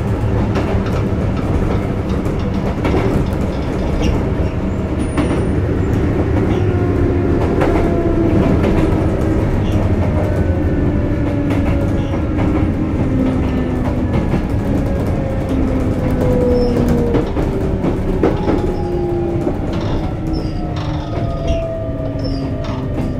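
Sotetsu 8000 series electric train heard from on board: a constant running rumble with wheels clicking over the rails, and the Hitachi IGBT-VVVF inverter and traction motors whining in several tones that fall steadily in pitch as the train slows.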